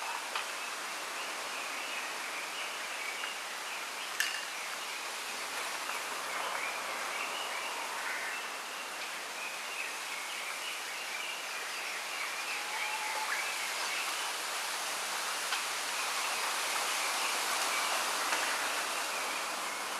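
Wind hissing steadily through bamboo leaves, with small birds chirping continuously through it. There is a single sharp click about four seconds in.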